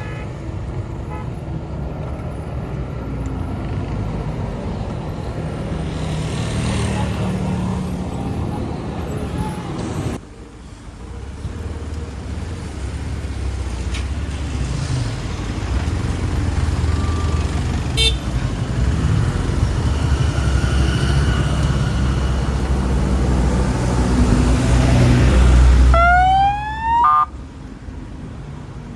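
Motorbike engine running through city street traffic, with a steady low drone. About twenty-six seconds in there is a quick pair of rising whines, then the sound drops away.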